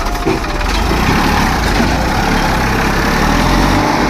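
Massey Ferguson 1035 DI tractor's three-cylinder diesel engine running steadily and loudly.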